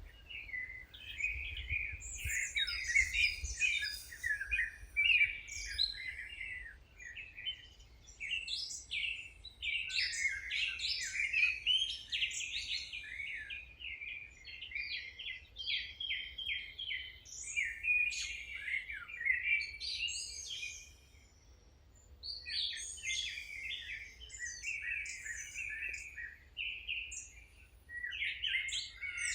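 Several songbirds chirping and singing at once, quick overlapping chirps and trills with a short lull about two-thirds of the way through.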